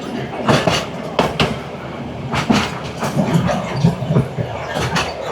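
Narrow-gauge railway carriage running along the track: a steady rumble with irregular sharp clacks and knocks from the wheels and car body.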